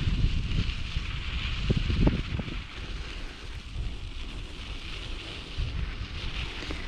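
Wind buffeting the microphone during a bicycle ride: a low, uneven rumble over a steady hiss, with a couple of short knocks about two seconds in.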